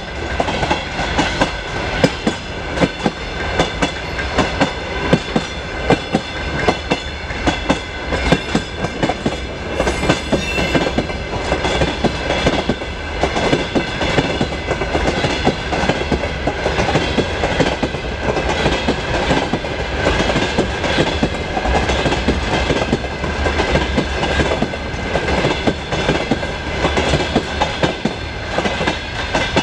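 Freight train of covered hopper and open gondola wagons rolling past at speed: a steady rumble with rapid, continuous clicking of wheels over rail joints and a steady high whine running through it.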